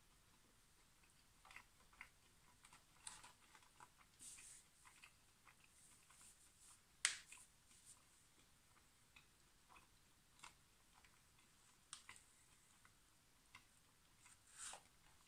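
Near silence with faint chewing of McDonald's fries: scattered soft crunches and mouth clicks, with one sharper click about seven seconds in.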